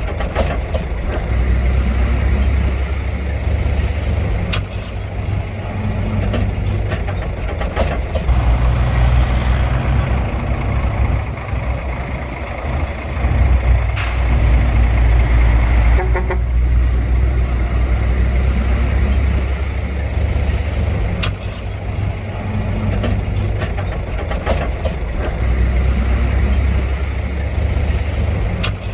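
Heavy diesel engine of earthmoving machinery running and working, its low sound swelling and easing. Sharp sudden sounds break in every few seconds.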